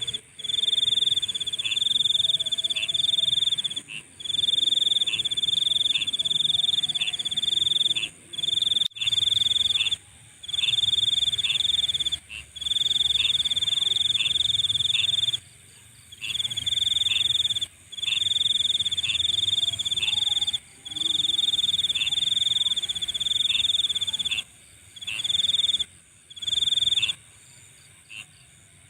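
Night insects trilling: a high, steady trill in runs of one to three seconds separated by short breaks, with a fainter higher shimmer and short pips repeating below it. The trilling stops a little before the end.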